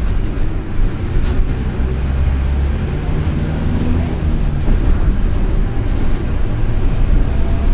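Mercedes-Benz OF-1722M city bus turbodiesel engine running, a steady low drone.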